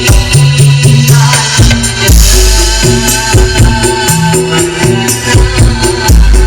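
Very loud music blasted from a 'sound horeg' carnival sound system: heavy booming bass notes under a fast, even ticking beat, with a cymbal-like crash about two seconds in.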